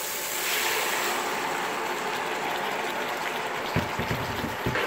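Chicken, smoked sausage, peppers and mushrooms sizzling steadily in a hot nonstick sauté pan on an induction cooktop as the meat is tipped in. A few dull knocks near the end.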